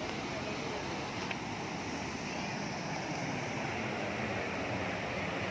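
Chitrakoot Falls on the Indravati River, a steady roar of falling water.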